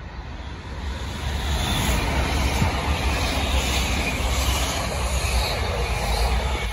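Italo high-speed electric train passing at speed: a steady rushing of wheels on rail and air that swells as the train draws level about a second in.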